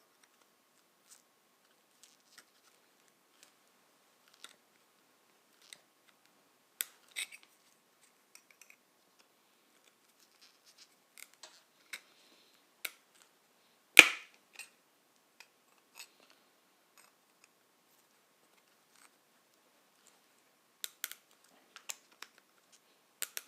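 Scattered small clicks and taps of tools and a brazed copper tube being handled as the joint is opened up, with one sharper click about halfway through.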